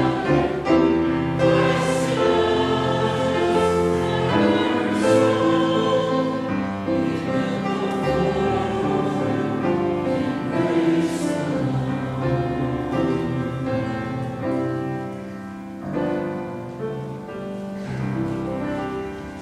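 Church choir singing a hymn in sustained chords, the sound dying away over the last few seconds.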